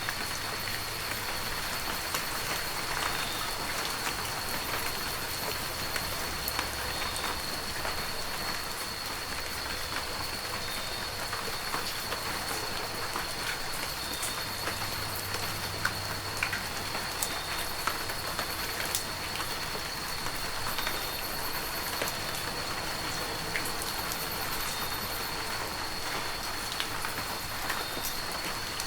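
Heavy rain falling steadily, with scattered individual drops ticking on a surface. Faint low rumbles come and go, and a thin high steady tone runs under the rain.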